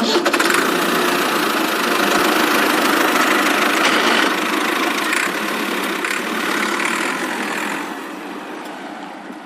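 Tractor engine sound effect running steadily, fading out over the last couple of seconds.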